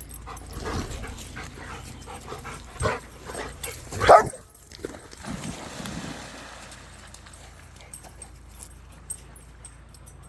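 A dog giving several short, high calls over the first six seconds, the loudest about four seconds in.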